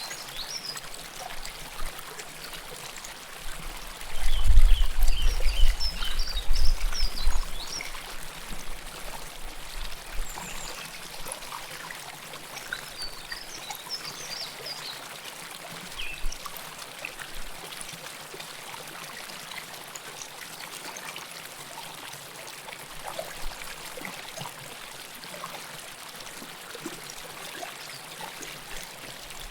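Close-up river water flowing and trickling, a steady babble with small splashes. About four seconds in, a loud low rumble swells for a few seconds, then settles back to the steady flow.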